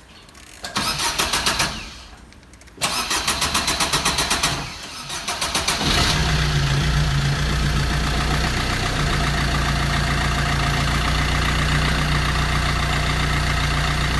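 Suzuki Swift diesel engine being cranked by its starter in two bursts of rapid, even chugging, hard to start after standing unused for many days. It catches about six seconds in and settles into a steady idle.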